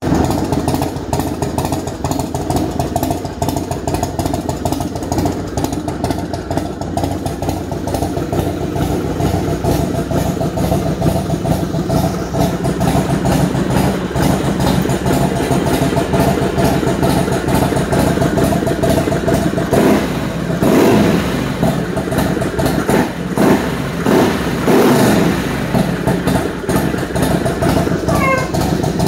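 Harley-Davidson FXSTS Springer Softail V-twin idling through a D&D Fat Cat 2-into-1 exhaust, with several quick throttle blips about two-thirds of the way in before it settles back to idle.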